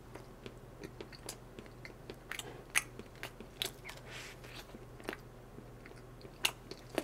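A person biting into and chewing a bread roll close to the microphone, with a string of small, irregular crunches and mouth clicks.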